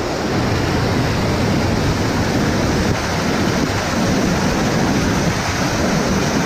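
Waterfall rushing, a loud, steady, even roar of falling water.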